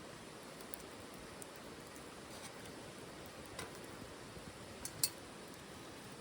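Wood fire burning in a titanium wood stove: a steady low hiss with scattered small crackles, and one louder snap about five seconds in.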